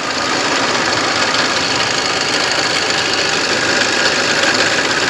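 Toyota Innova diesel engine idling with a steady mechanical noise from its belt-driven accessories. The mechanic traces this noise to a failed, jamming A/C compressor bearing.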